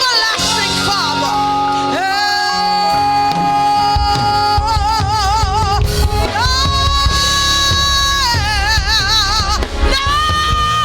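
A female vocalist singing long held notes with wide vibrato over live band accompaniment; bass and drums come in about four seconds in.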